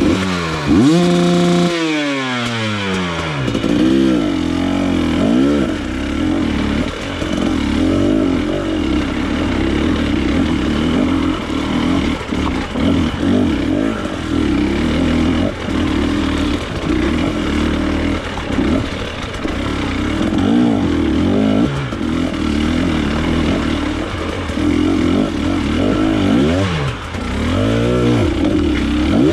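Trail motorcycle engine, just started, held at a rev and then falling back about two seconds in. It then runs steadily under the rider's throttle, its pitch rising and falling several times as the bike is ridden.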